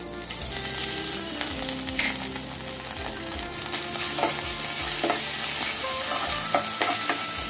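Crushed ginger and whole spices sizzling in hot oil in a kadai, stirred with a steel spatula that clicks and scrapes against the pan now and then.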